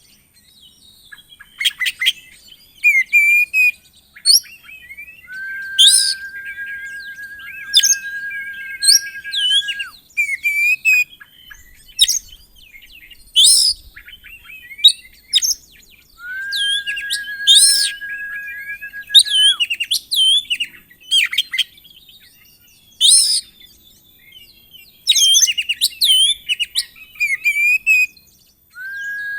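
Oriental magpie-robin singing a varied run of sharp chirps and whistled phrases. Twice it holds a long, steady whistle for several seconds, about five seconds in and again around seventeen seconds.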